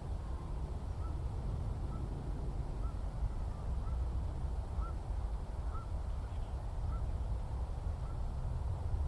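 A bird repeating a short, upward-flicking call about once a second, over a steady low rumble.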